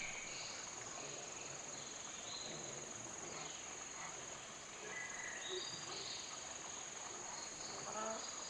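Steady high-pitched drone of insects such as cicadas or crickets, with short high chirps now and then.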